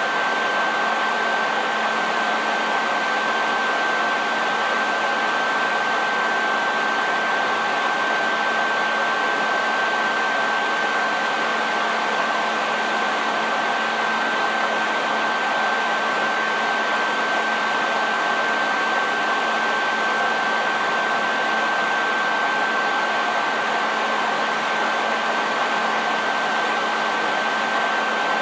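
Hair dryer running steadily: a constant rush of air with a steady high whine from its motor and fan.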